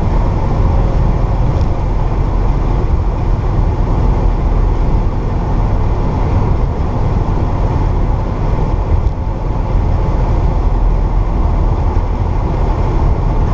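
1964 Pontiac GTO's 389 V8 running steadily under way, with road noise and no marked revving.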